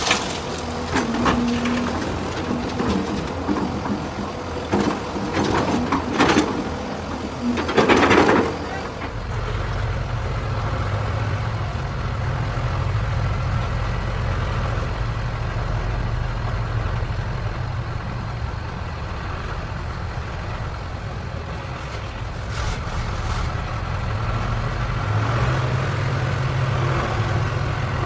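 Scattered clicks and knocks, then about nine seconds in a truck engine starts and runs steadily with a low drone, its pitch rising slightly near the end.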